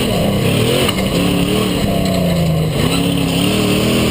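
Rock bouncer's engine revving hard, its pitch swinging up and down several times as the throttle is worked, with a brief drop just before the end.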